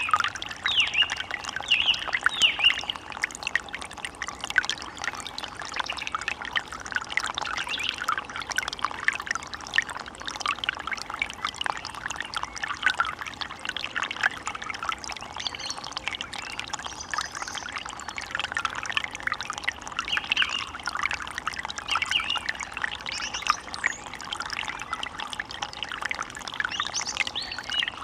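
Forest stream water running and babbling steadily, with a few bird calls over it.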